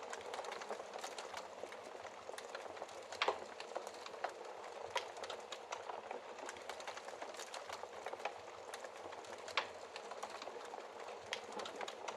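Wood fire crackling in a fireplace: a steady hiss and rustle with irregular sharp snaps and pops, the loudest about three seconds in and again near ten seconds.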